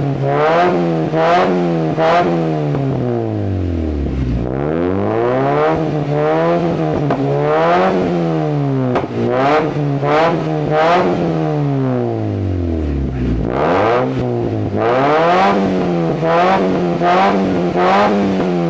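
Mazda 323's 1.8-litre four-cylinder engine revved through an aftermarket exhaust with a stainless rear muffler and 4-inch tip. The throttle is blipped repeatedly, pitch rising and falling about once or twice a second, and the engine drops back to idle twice, about four seconds in and again near thirteen seconds.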